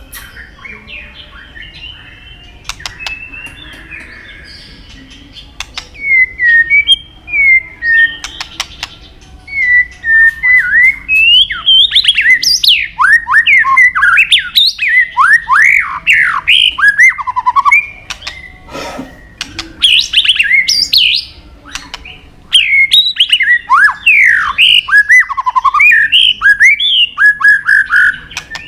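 White-rumped shama (murai batu) singing a loud, varied song of rapid sweeping whistled phrases full of mimicked calls. The song starts about six seconds in after a faint stretch and comes in runs with short pauses.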